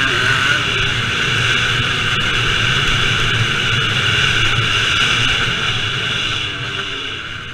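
Vintage motocross motorcycle engines running hard at high revs, the sound fading off near the end.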